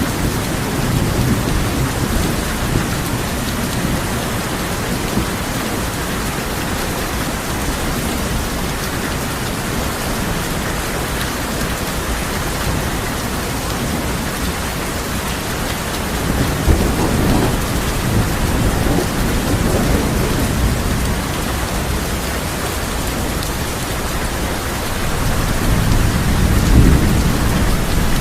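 Steady heavy rain drumming on a tin roof, with rolls of thunder rumbling low about sixteen seconds in and building again near the end.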